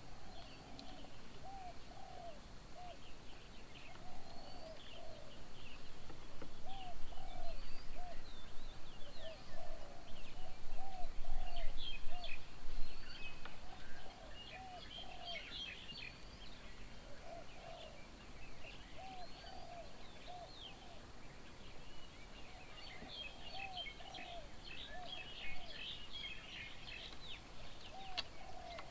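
Several garden birds calling together: a mix of high chirps and twitters over a repeated low call that comes in short runs of a few notes. The chirping is busiest in the middle and again near the end.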